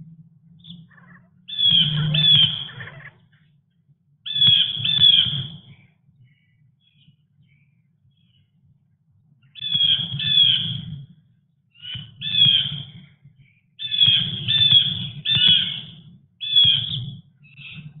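Birds calling harshly in short bursts of two to four repeated notes, about seven bursts with gaps of a second to several seconds between them.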